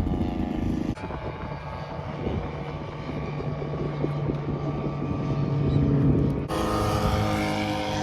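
Radio-controlled model airplane engines running with a steady buzz. The sound changes abruptly about a second in and again past six seconds.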